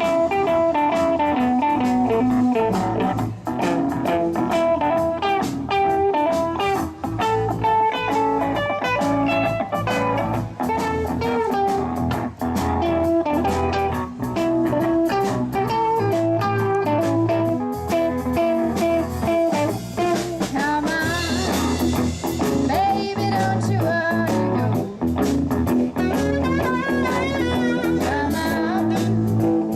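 Live blues band playing an instrumental passage: a melodic lead line over electric guitar, bass and a steady drum beat.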